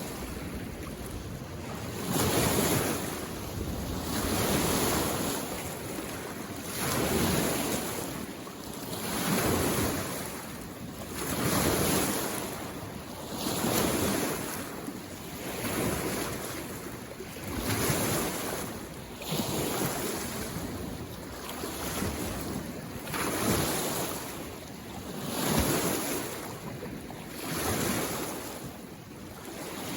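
Small lake waves lapping against the shore, a splash and wash about every two seconds.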